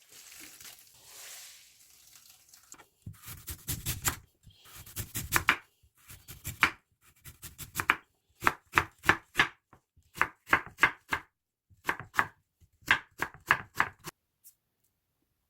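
Knife chopping food on a cutting board, in short runs of quick strokes, about three a second, that stop about a second before the end. A brief hissing noise comes before the chopping starts.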